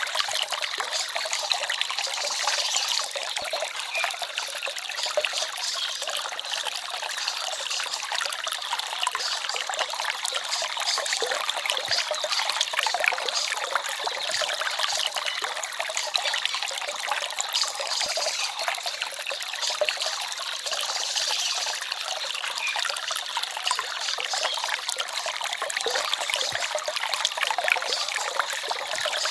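Forest stream trickling and babbling steadily, a bright, even rush of water with little low rumble.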